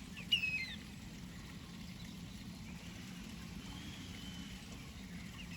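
A short, sharp, piping call from a wading bird about half a second in, then a steady low background hum with a faint thin whistle near the middle.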